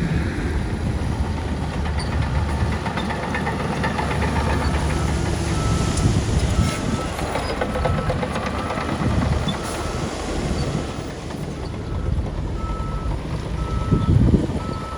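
Heavy earthmoving machinery's diesel engine running under load, with metallic clanking. From about four to five seconds in, a reversing alarm beeps repeatedly at a steady pace.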